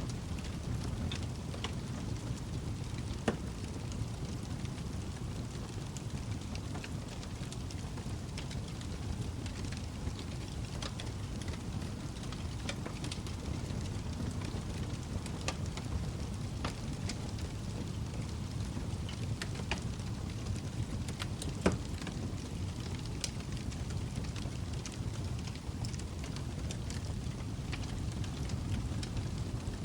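Log fire burning in a fireplace: a steady low rumble of flames with scattered sharp crackles and pops, two of them louder, about three seconds in and about twenty-two seconds in.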